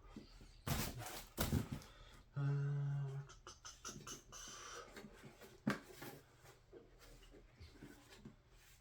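Handling sounds as the end cap of a diesel heater is unscrewed: scattered knocks and rubs of plastic and metal. A short, steady, low hummed note comes about two and a half seconds in.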